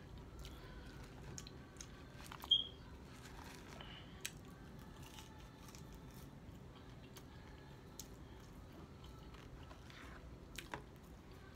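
A person chewing food close to the microphone: soft mouth noises with a few sharp clicks and smacks, the loudest about two and a half seconds in.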